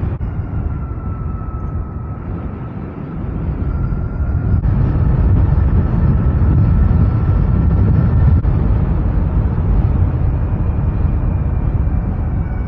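Zero SR/F electric motorcycle on the move: wind rushing over the microphone, swelling louder in the middle, with the electric motor's thin steady whine slowly rising in pitch.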